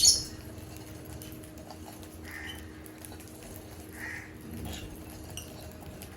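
African lovebirds calling: one loud, shrill chirp at the start, then a few softer short calls.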